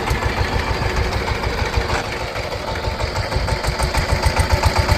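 A 20-horsepower mini power tiller's engine running with a steady, rapid chug.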